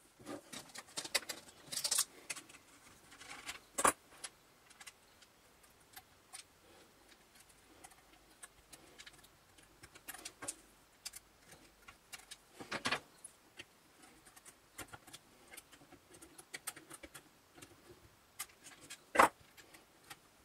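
Small metal parts being handled by hand: scattered light clicks and rattling as the new carbon brushes for the saw motor are sorted and fitted, with three sharper clicks at about 4, 13 and 19 seconds in.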